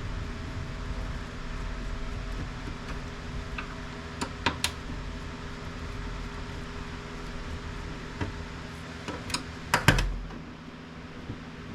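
A few sharp clicks and knocks from plastic printer parts being handled during disassembly, over a steady background hum. The loudest cluster of knocks comes near the end, after which the hum drops.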